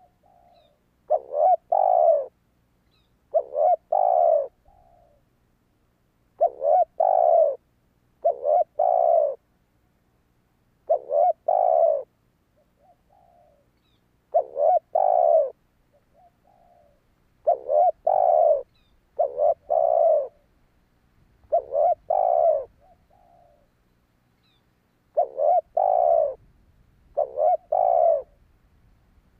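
Spotted dove cooing: eleven loud phrases, one every two to three seconds, each a couple of short clipped notes run into a longer coo, with fainter single notes between phrases.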